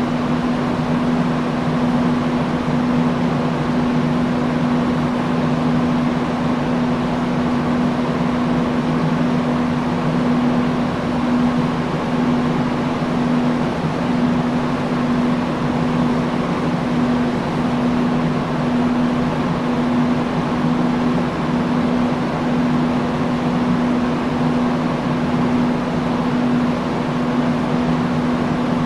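Industrial fan running steadily: a continuous rush of moving air under a low, even motor hum.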